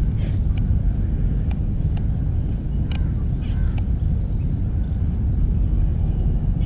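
Steady low outdoor rumble, like traffic or wind on the microphone, with a few faint clicks scattered through it.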